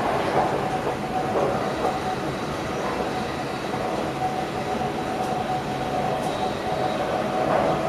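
Electric passenger train running along the track, heard from inside the driver's cab: a steady rumble of wheels on rail with a steady whine.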